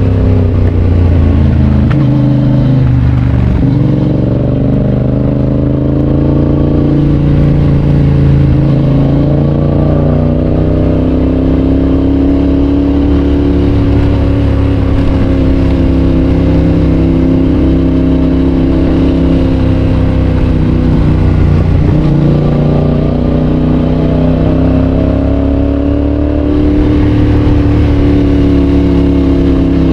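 Yamaha Tracer 7's parallel-twin engine through a GPR aftermarket exhaust, running under way. The engine note rises and eases off, with a couple of quick drops in pitch along the way.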